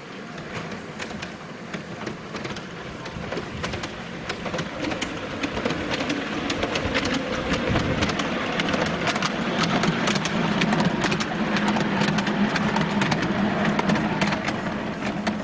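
Narrow-gauge railway train running, growing louder over the first ten seconds, with a dense clatter of rapid clicks and rattles and a low hum in the later part.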